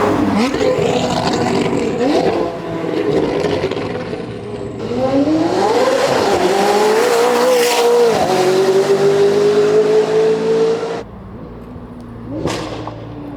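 McLaren 570S/620R twin-turbo V8 running through a Valvetronic Designs valved full exhaust, driven hard with the revs repeatedly climbing and falling; the revs drop about eight seconds in and then climb steadily again. About eleven seconds in the sound cuts off abruptly to a much quieter engine note, with a short rev near the end.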